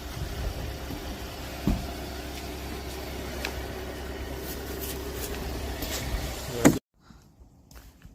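Truck engine running steadily as a low hum with a few sharp knocks, cut off abruptly about seven seconds in; faint ticks or steps follow.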